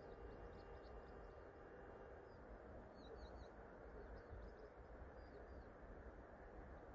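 Near silence: faint low outdoor rumble with a few soft, high bird chirps, a quick run of three about three seconds in and two more a couple of seconds later.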